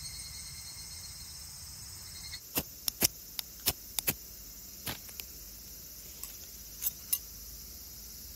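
Insects chirping steadily in a summer chorus. From about two and a half seconds in comes a scattered series of about a dozen sharp clicks and taps.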